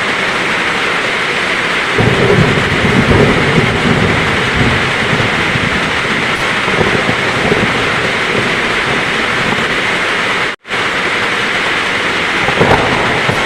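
Heavy rain falling steadily with thunder: a low rumble rolls in about two seconds in and lasts a few seconds, and another short rumble comes near the end. The sound cuts out completely for a split second about ten seconds in.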